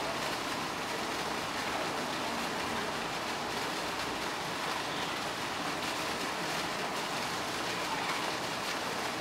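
Steady rush of running water, an even hiss with no distinct splashes.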